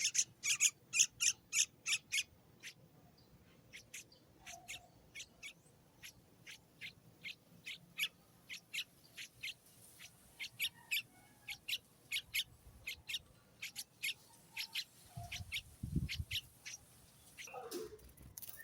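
A young bird chirping in a fast run of short, high chirps, several a second: loud for about the first two seconds, then softer and more spaced out. A brief low rumble comes a few seconds before the end.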